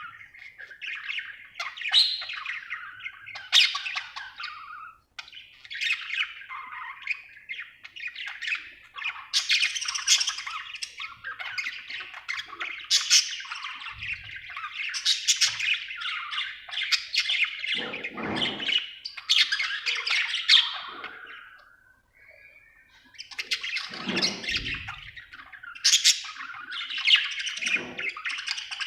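Budgerigar chirping and chattering: fast runs of warbles, chirps and squawks with short pauses.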